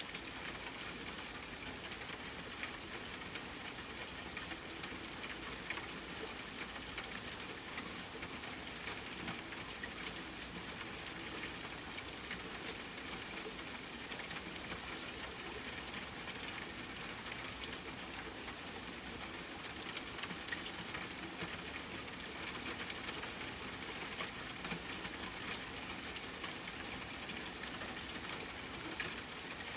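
Steady rain falling, with a dense patter of individual drop ticks over an even hiss.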